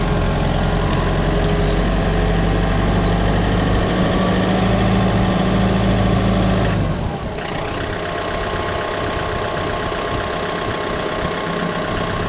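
An engine running steadily with a strong low hum; about seven seconds in the low hum drops away and it carries on quieter, then the sound cuts off suddenly.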